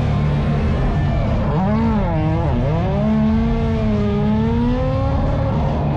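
Drift car's engine revving hard: the pitch climbs, drops sharply about two and a half seconds in, then climbs again and holds high. A steady low drone runs under it.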